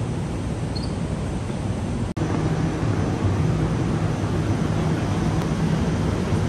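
Steady low hum and rushing noise beside a standing ETS electric train at a station platform, with a brief dropout about two seconds in, after which the hum is slightly louder.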